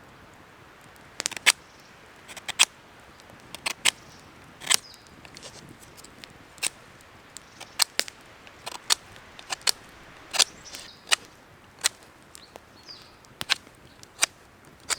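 Dry wood cracking and snapping in sharp, irregular pops, roughly one a second and sometimes in quick pairs, over a quiet background.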